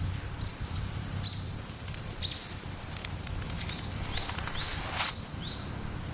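Outdoor ambience with a bird giving short, repeated chirps over a steady low rumble. Scattered clicks and rustling run through the middle, ending with a brief loud rustle that cuts off sharply about five seconds in.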